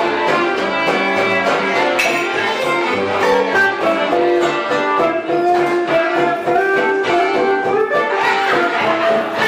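Live band music: a violin carrying held melody notes over guitar and a steady rhythmic pulse.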